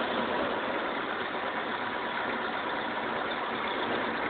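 Cessna 150's Continental O-200 four-cylinder engine and propeller running steadily.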